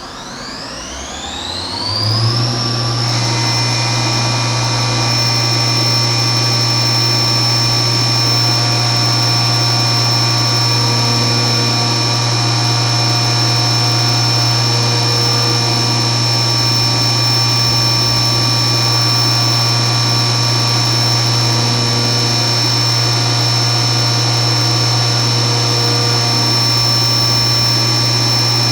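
CNC milling machine spindle spinning up, its whine rising in pitch over the first two seconds or so, then running at a steady speed with a high whine over a low hum.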